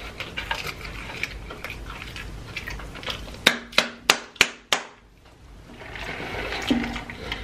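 Close-miked chewing of fried fast food, with wet mouth clicks throughout and a run of five sharp clicks about halfway through.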